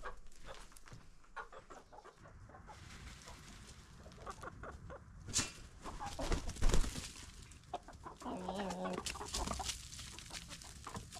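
Backyard chickens clucking and calling in short bursts, with a few sharp clicks and knocks, the loudest a little before seven seconds in.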